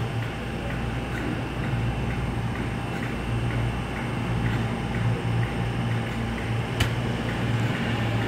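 Steady low hum of a passenger train standing at the platform, with a faint, regular ticking over it and one sharp click about seven seconds in.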